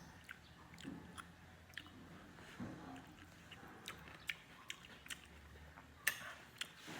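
A person chewing and biting food, with scattered sharp crunchy clicks.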